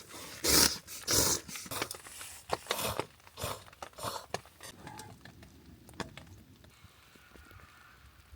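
Utensil scraping the red residue off the inside wall of a food cup while eating: a run of short scratchy scrapes and clicks, thinning out about five seconds in.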